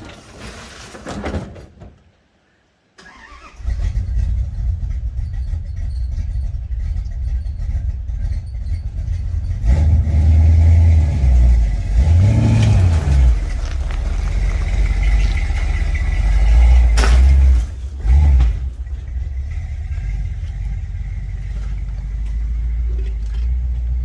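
First-generation Dodge Ram pickup engine pulling under load at low speed, its low rumble rising and falling as it is revved up and eased off to work through a tight spot. A couple of sharp knocks come about three quarters of the way through.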